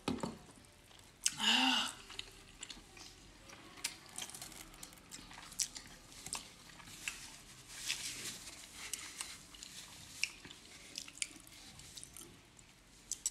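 Close-miked chewing of steamed momos (dumplings): soft wet chewing with many small mouth clicks and smacks. A short voiced sound comes about a second and a half in.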